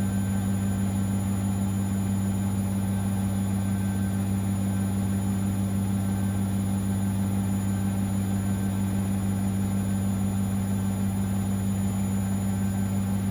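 Siemens Extraklasse XLS 140 A front-loading washing machine running with a steady, unchanging low hum during its 90 °C boilwash cycle.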